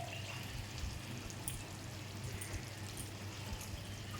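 Chicken curry sizzling gently in a kadai over a lowered gas flame, with scattered small crackles over a steady hiss.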